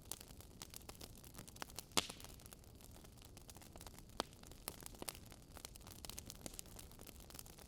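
Burning logs crackling in a wood fire: scattered sharp pops and snaps over a soft hiss, the loudest pop about two seconds in.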